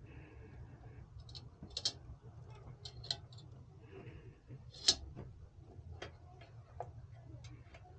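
Scattered light clicks and taps of small hard parts being handled, irregular and sharpest about five seconds in, over a steady low hum.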